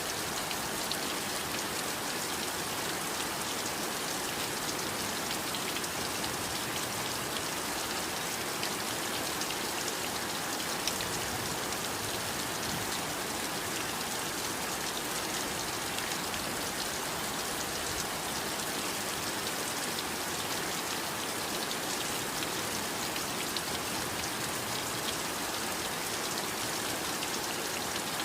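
Heavy rain falling steadily, a dense even hiss of rain with countless small drop ticks on a surface.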